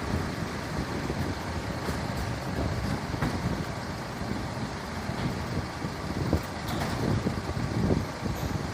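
A large vehicle's engine running: a steady low rumble.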